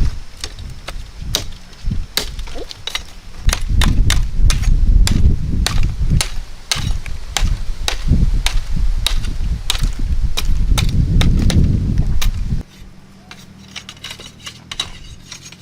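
A blade chopping and trimming a wooden pole to make a fishing rod: a quick, uneven run of sharp knocks, about two or three a second. A low rumble of wind on the microphone runs underneath and cuts off suddenly near the end.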